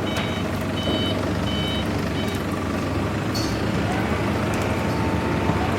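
Steady hiss of heavy rain, with a series of short high electronic beeps, about two a second, that stop about two and a half seconds in.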